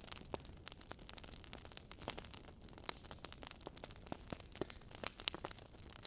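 Wood fire crackling: irregular small pops and snaps, several a second, over a soft steady hiss.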